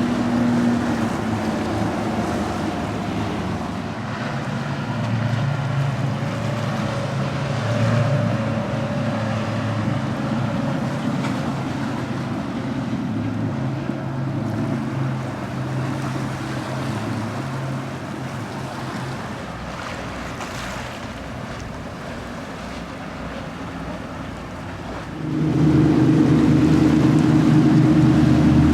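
Motorboat engines running as boats pass through an inlet, over the wash of waves and some wind. About 25 s in, a louder, deeper engine suddenly takes over.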